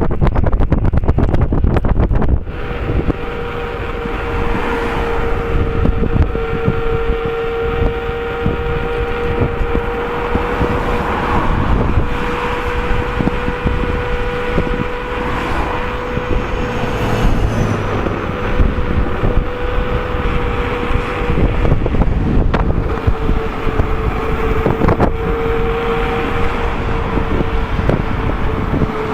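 Knobby tire of an Inmotion V13 electric unicycle humming on the road at steady speed: a steady whine that dips slightly in pitch near the end. Wind rumbles on the microphone for the first couple of seconds.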